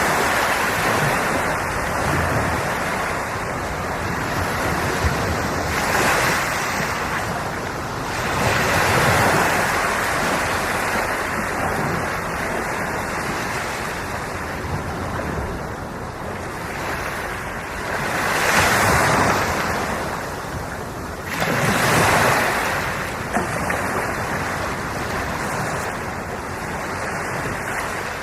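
Sea waves breaking and washing on the shore, swelling louder every few seconds, with some wind on the microphone.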